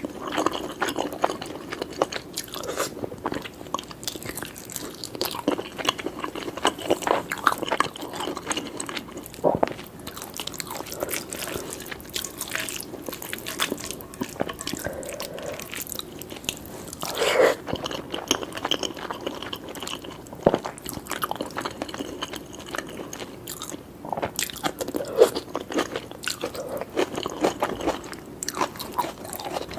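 Close-miked eating: steady wet chewing, mouth clicks and crunchy bites of a meal of lamb and egg curry with basmati rice, grilled tomato and peppers, with a few louder bites along the way.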